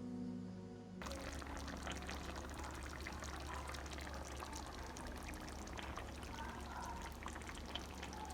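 Thick chicken curry gravy simmering in the pan, bubbling with many small pops, over a steady low hum. Background music plays for about the first second before the bubbling takes over.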